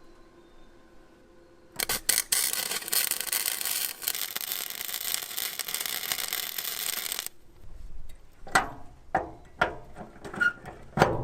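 Arc welder laying a weld bead to fix a captured nut back onto a truck frame: a dense, crackling hiss for about five seconds that stops abruptly. It is followed by several sharp, separate metal knocks.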